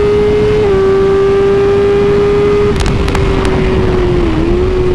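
BMW S1000RR's inline-four engine running at a steady cruising speed, a constant drone with wind rushing across the microphone. The pitch steps down slightly just under a second in and dips briefly twice near the end, with a few short clicks about three seconds in.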